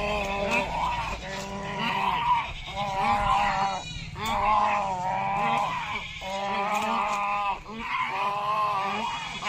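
Nesting waterbirds in a painted stork and pelican colony calling over and over, with loud bleating calls of about a second each following one another without a break.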